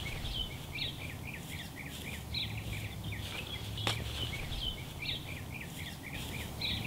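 Birds chirping continuously, a quick run of short high chirps several times a second, over a low steady rumble, with a single sharp click about four seconds in.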